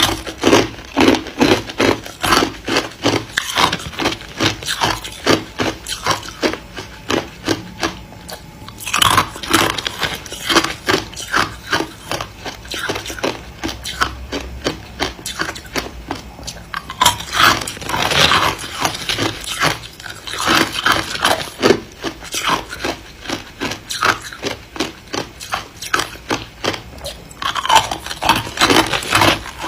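Ice being chewed: dense, crisp crunching, with louder clusters of crunches every several seconds.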